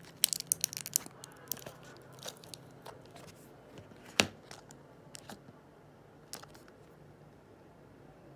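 Handling noises: scattered small clicks and crinkles, thick at first and thinning out, with one sharper tap about four seconds in, over a faint low hum.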